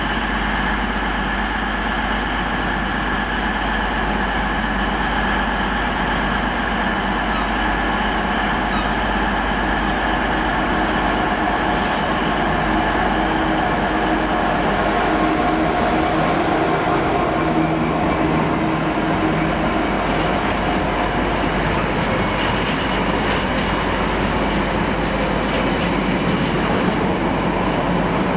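A Class 66 diesel-electric freight locomotive approaches and passes with a container train, its two-stroke diesel engine running steadily. In the last third the container wagons roll by with a rapid clatter of wheel clicks.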